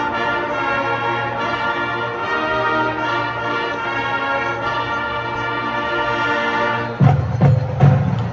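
Marching band brass section holding a loud sustained chord for about seven seconds, then the percussion comes in with sharp repeated drum hits near the end.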